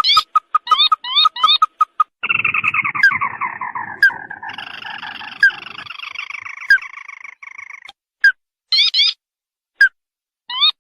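Recorded crake (burung tikusan) call played as a lure: short rising notes in quick pairs and triplets, then a long trill of many notes that slowly falls in pitch for several seconds, then single sharp notes about every second and a half.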